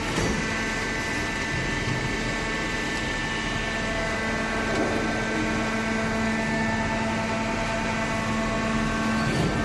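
Hydraulic baler running: a steady machine hum with a constant low tone over a broad noise, and a brief knock just after the start.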